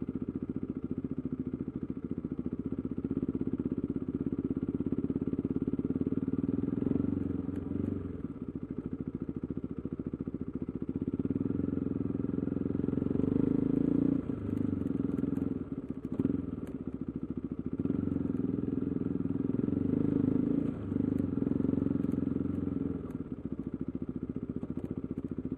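KTM 390 Adventure's single-cylinder engine, breathing through an aftermarket Arrow exhaust with the resonator removed, running steadily while riding. Its level dips and comes back a few times.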